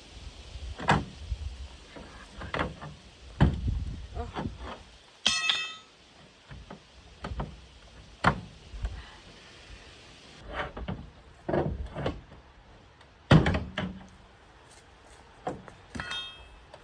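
Irregular metal clanks and thuds as a pry bar works at a stuck car hood, with a short ringing metallic strike about five seconds in and another near the end.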